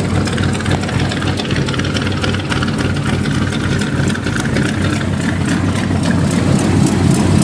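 1980 Chevy truck's bored-out 350 small-block V8 idling steadily.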